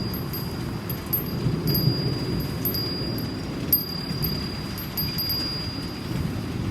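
Steady rain with a low rumble underneath, and a Japanese wind chime ringing one high tone that is struck again about once a second.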